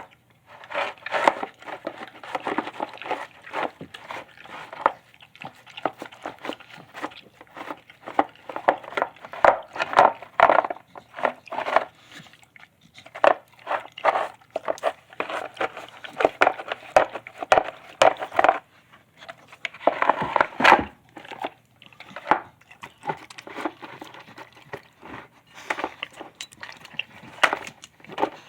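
Shar-Pei–pit bull mix dog eating a wet meal: bursts of chewing, smacking and slurping, broken by short pauses.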